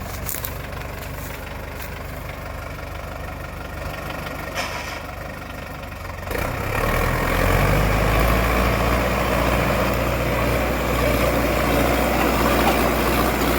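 Sonalika tractor's diesel engine running steadily at low revs, then throttled up about six seconds in and held steady at higher, louder revs.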